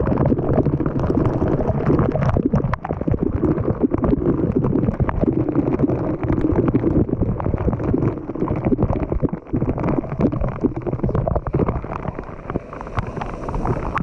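Falling water from a waterfall rushing and splashing right at the microphone, with wind buffeting it. The noise is loud and steady, crackling all through, and eases a little near the end.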